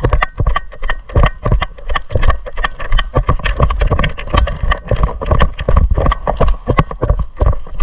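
Footsteps and gear knocking close to the microphone as a player walks quickly, several irregular steps and knocks a second, over a faint steady high whine.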